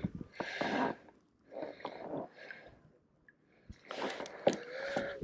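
A person breathing close to the microphone: several short, hissy breaths with brief pauses between them.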